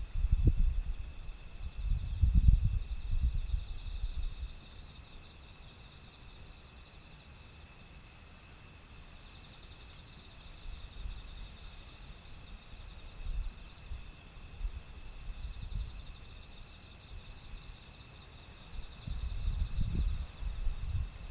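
Insects chirping steadily in a high, even trill. Low gusts of wind buffet the microphone for the first few seconds and again near the end.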